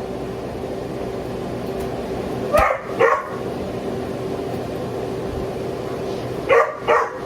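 A pet dog barking: two quick barks a few seconds in and another quick pair near the end. It is shut away while the family eats.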